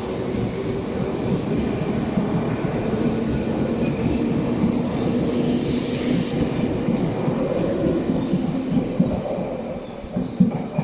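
Tobu Railway electric train running along the platform, wheels clattering over the rail joints with a faint wheel squeal; the noise eases off near the end, with a few sharp knocks.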